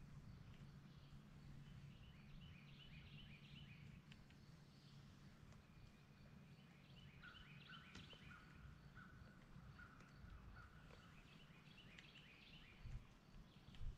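Faint birdsong: short chirping phrases repeated several times, with a run of evenly spaced notes in the middle, over a low steady rumble. A couple of soft thumps come near the end.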